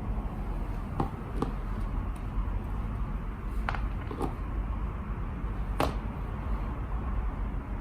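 A few small, sharp clicks and knocks, about five spread over several seconds, from parts and tools being handled during scooter rear-wheel work, over a steady low background rumble.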